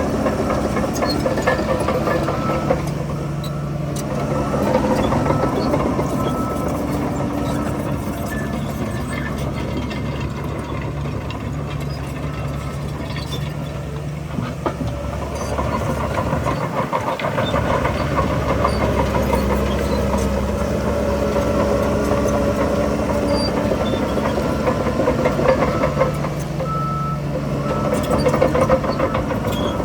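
Heavy diesel engines of earthmoving machinery working, with engine speed rising and falling as they take load. A few short high beeps near the start and again near the end.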